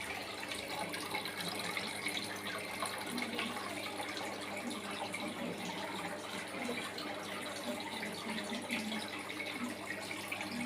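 Water splashing and trickling steadily from a small homemade aquarium waterfall.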